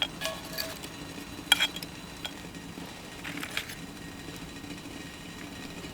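Metal utensils clinking against cookware, a few sharp knocks with a brief ring. The loudest comes about a second and a half in.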